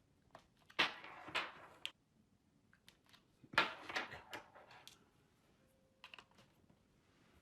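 Clicking and rattling of a power cord and its plug being handled and knocked about, in two bursts about a second long, with a few single clicks between.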